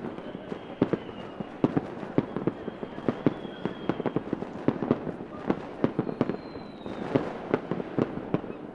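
Fireworks going off in a dense, irregular run of sharp bangs and pops, with a faint high whistle now and then.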